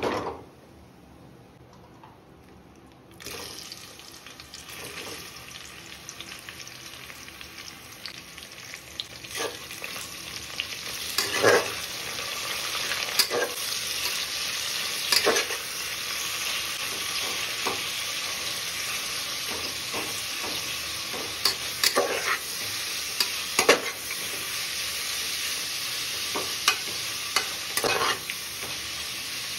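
Food frying in hot ghee and oil in a pressure cooker. A knock comes at the very start; the sizzle begins about three seconds in and grows louder, with a spatula stirring and scraping against the pot now and then.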